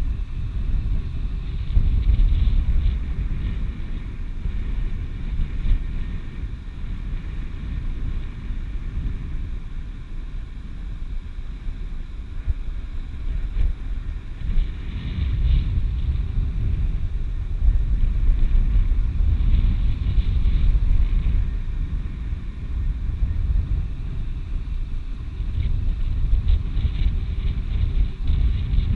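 Wind buffeting the microphone: a loud, low rumble that swells and eases with the gusts.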